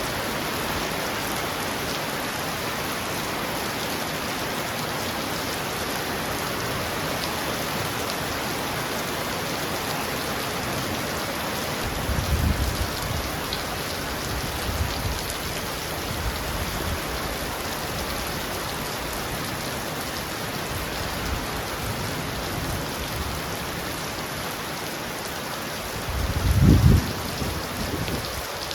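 Heavy rain pounding on a roof in a steady, dense hiss. Two low rumbles of thunder swell up under it, one about twelve seconds in and a louder one near the end.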